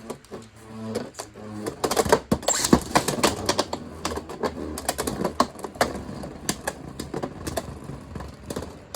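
Two spinning Beyblade tops, a custom 3D-printed Agèma Ares and a Beyblade X Hell's Chain, clashing in a Beyblade stadium: rapid clacking collisions, densest in the first three seconds, then sparser knocks. A low whir sits under the first couple of seconds.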